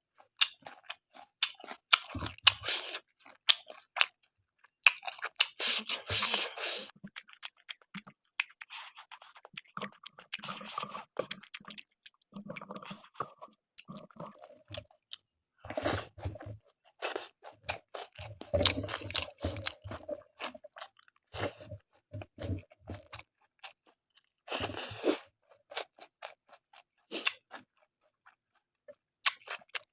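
A person chewing a mouthful of pork curry and rice close to the microphone, with irregular crunching and clicking mouth noises in uneven bursts.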